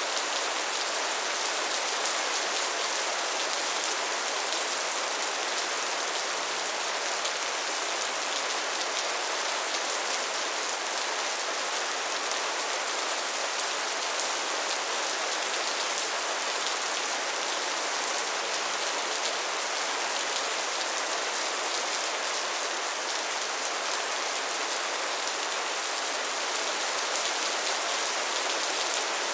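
Steady soft rain falling, an even patter of raindrops on a surface.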